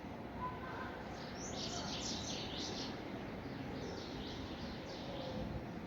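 A small bird singing two quick phrases of high, rapid chirps, the second fainter, over a steady low background hum of outdoor noise.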